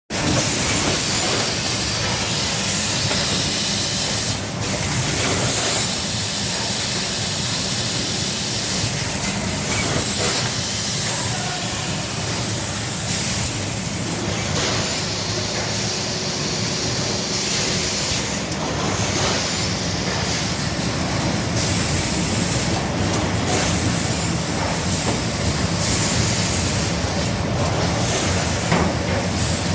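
Hardcover case-making machine (a JJX-850C camera-positioning endpaper-lining machine) running: a continuous mechanical hum with a steady airy hiss. The hiss brightens briefly every four or five seconds as the machine cycles.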